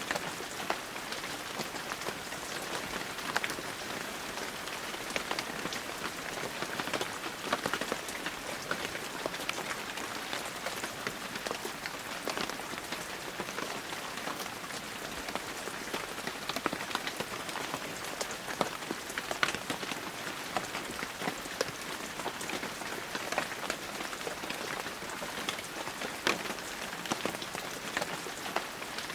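Heavy rain falling steadily, a dense even hiss scattered with frequent sharp drop impacts.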